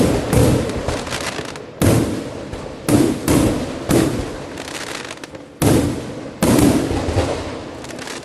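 Fireworks going off: about five sharp bangs, each trailing off in a long rumbling echo over a continuous rumble, dying down near the end.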